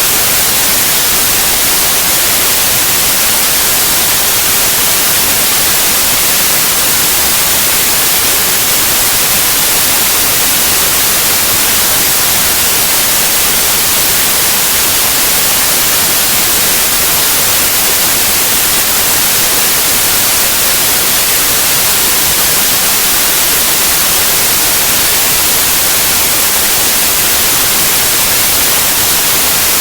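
Steady white noise: an even, unbroken hiss with no change in level, strongest in the treble.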